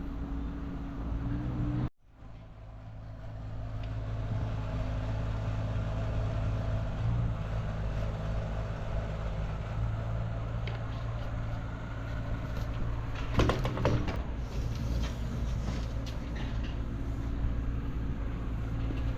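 An engine running steadily, the sound of machinery at work on the backfilling of the trench. The sound cuts out sharply about two seconds in and fades back up, and a brief clatter comes about two-thirds of the way through.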